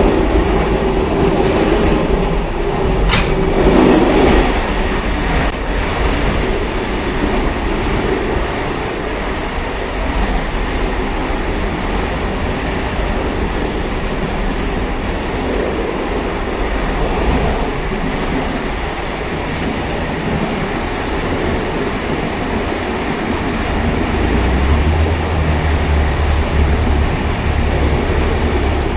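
A railcar running on the rails: a steady rumble and rattle, with one sharp click about three seconds in and a deeper low rumble building over the last few seconds.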